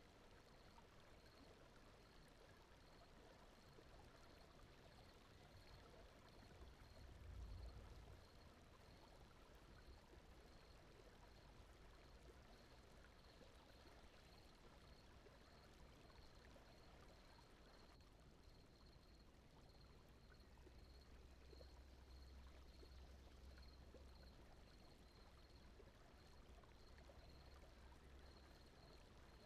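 Faint, steady brown-noise bed, a soft rushing hiss like a distant stream, with a faint high chirp repeating about twice a second. A brief low rumble swells about seven seconds in.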